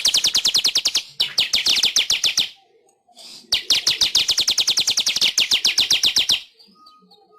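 Weaver bird (manyar) singing two long, rapid trills of sharp repeated notes, about ten a second, each lasting about two and a half to three seconds with a pause of about a second between; the song stops about a second before the end.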